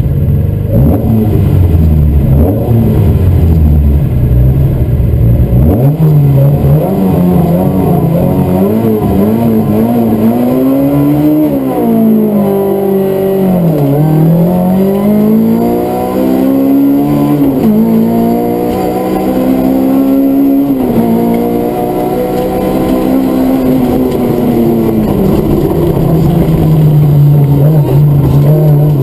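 Rally car engine heard from inside the cockpit, held at revs with a heavy rumble, then pulling away about six seconds in and accelerating hard. The pitch climbs and drops again and again through the gear changes and settles into a steady run near the end.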